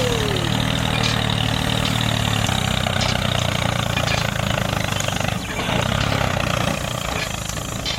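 Small engine running steadily, with a few faint short knocks.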